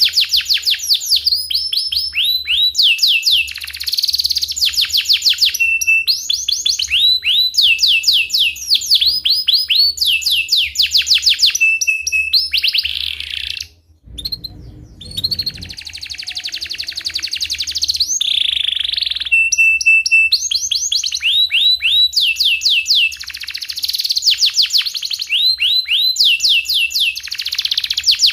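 Domestic canary singing a long, vigorous song of fast trilled rolls and repeated chirping notes, phrase after phrase. The song breaks off for a moment about halfway, with a short low rumble, then resumes.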